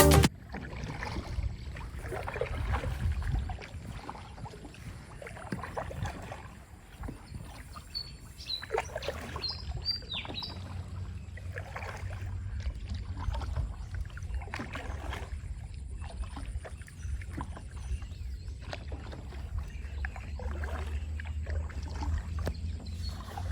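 A boat moving along a river: water swishing and splashing along the hull over a steady low rumble. A few short bird chirps come about eight to ten seconds in.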